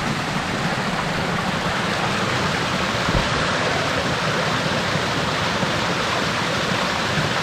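Steady rush of running stream water, an even hiss without breaks.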